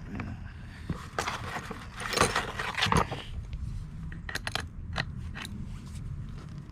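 Shock absorber parts being handled during reassembly: scraping for about two seconds, then a quick run of sharp metal clicks.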